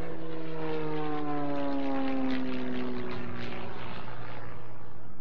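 Propeller airplane's piston engine passing by in a low flyby, its pitch falling as it goes past and then levelling off.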